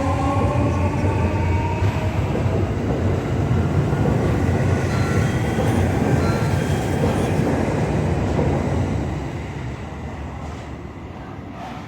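315 series electric multiple unit train running, with its traction motor whine rising in pitch during the first couple of seconds over the rumble of the wheels on the rails. The noise fades away after about eight and a half seconds as the train moves off.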